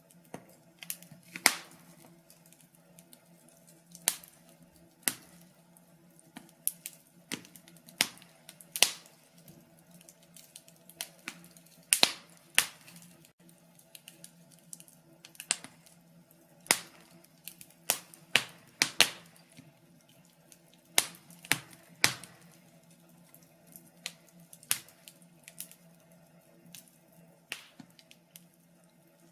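Wood fire crackling, with sharp irregular pops and snaps every fraction of a second to a few seconds over a faint steady hum.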